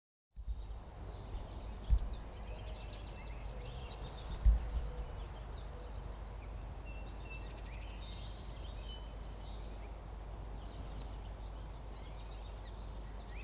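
Small birds chirping and calling in scattered short notes over a low steady rumble, with two brief low thumps about two and four and a half seconds in.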